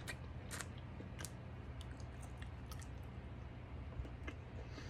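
A person chewing a mouthful of peeled hard-boiled egg close to the microphone: soft, scattered mouth clicks over a steady low hum.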